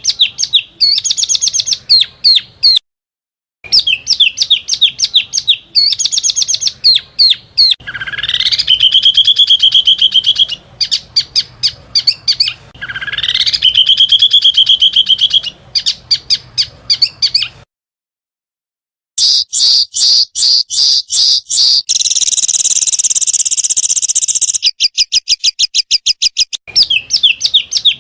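Small songbirds singing rapid, sharp volleys of high chirps and trills, with rising whistled glides, a buzzy stretch and a fast run of ticks, cut together with abrupt silent gaps. This is a bird-song master recording of the kind played to tutor competition songbirds.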